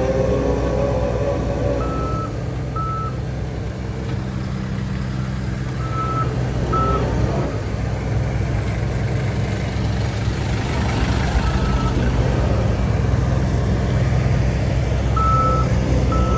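Diesel engine of a heavy earthmoving machine running steadily while its reversing alarm sounds short pairs of beeps every few seconds.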